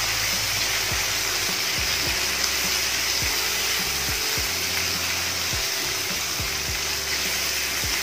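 Spiced onion-tomato masala sizzling steadily in oil in a pan as it is stirred and cooked, with soft background music underneath.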